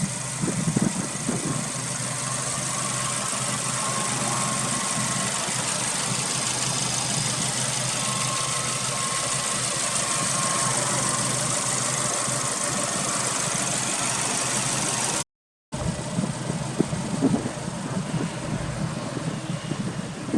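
Subaru WRX STI's turbocharged 2.0-litre flat-four running at idle through its HKS aftermarket exhaust, steady, with a short break about 15 seconds in where one take cuts to another that sounds rougher and more uneven.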